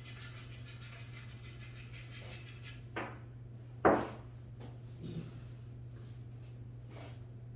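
Pool balls clicking: one loud, sharp click about four seconds in, with a few fainter knocks before and after it, over a steady low hum.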